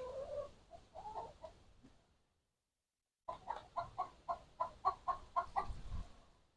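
A chicken calling: a drawn-out, wavering call over the first two seconds, then after a short break a quick run of about a dozen clucks, roughly four a second. A low rumble comes in near the end.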